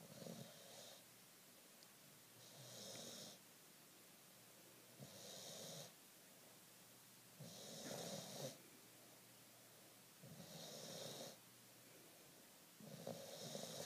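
Young bulldog snoring in her sleep: faint, rhythmic snores, six of them, each about a second long and coming roughly every two and a half seconds.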